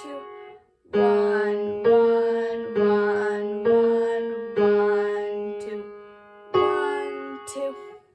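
Piano playing a slow beginner piece: two-note chords struck about once a second, each left to ring and fade. A longer held chord is followed by a final chord near the end, which dies away.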